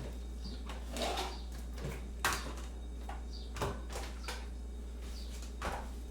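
Kitchen clatter from making tea and cake: crockery and utensils knocked and set down in scattered sharp clinks and knocks, the sharpest a little over two seconds in, over a steady low hum.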